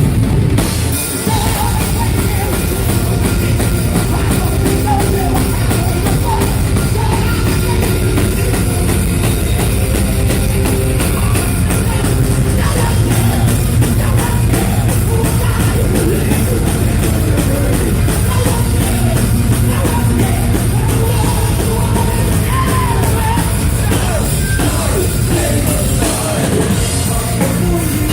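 A heavy metal band playing live: pounding drum kit and distorted guitars with some singing, in a loud, poor-quality audience recording.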